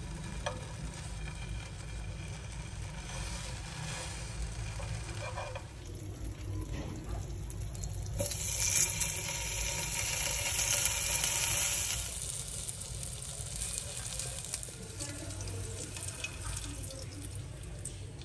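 Food frying in oil in a non-stick pan, a pancake and then sausages, with a louder, hissier stretch of sizzling for about four seconds in the middle. A steady low hum runs underneath, and a few light clicks come from the utensil against the pan.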